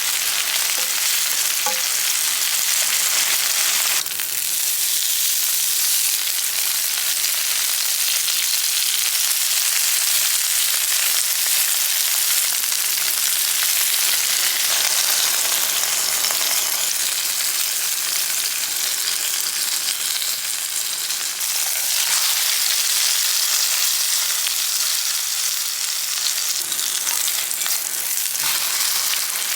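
Food frying in a hot pan, sizzling steadily, with abrupt shifts in the sizzle about four seconds in and again around twenty-two seconds.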